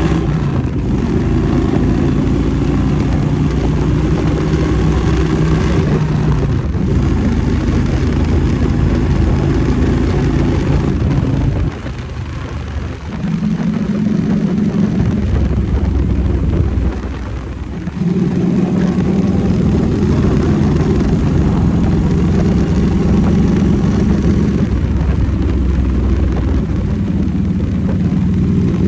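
Harley-Davidson V-twin motorcycle engine running steadily under way, a loud low drone. It drops away and changes pitch briefly about twelve seconds in and again around seventeen seconds.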